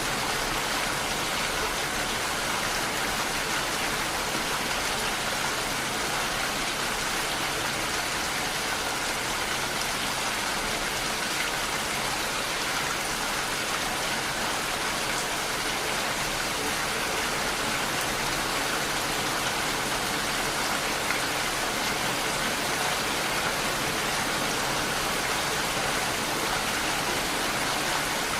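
Steady rain falling, a continuous even hiss with no claps or sudden events.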